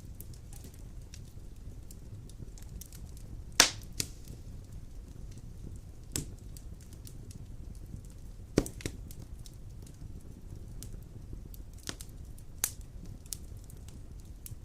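Wood fire burning in a stone fireplace, crackling steadily over a low rumble. Sharp pops stand out from it: the loudest about a third of the way in, with others near the middle and toward the end.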